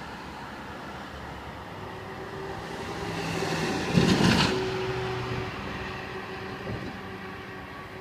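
E-One fire engine driving past with its diesel engine running, growing louder toward a peak about four seconds in, where there is a short loud burst, then fading away.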